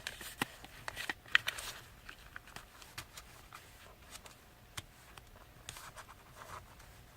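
Paper being folded by hand: faint rustling and crinkling, with scattered soft clicks as the thick, many-layered paper is curved and pressed.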